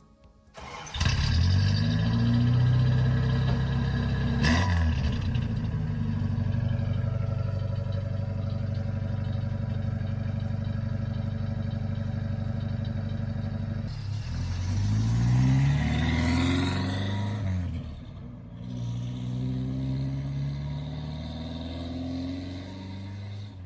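1985 Toyota Hilux 4x4 pickup's engine, breathing through newly fitted extractors and exhaust, pulling away and accelerating. The engine note climbs in pitch, holds steady for a long stretch with one sharp click, then climbs through the revs twice more before easing off near the end.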